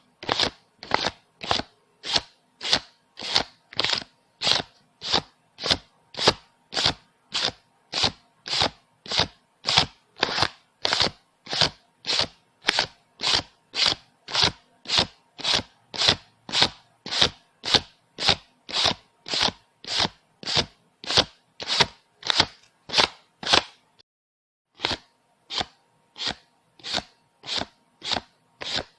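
Paper banknotes counted by hand, each bill flicked off the stack with a crisp papery snap, in a steady rhythm of one and a half to two a second. There is a pause of about a second near the end.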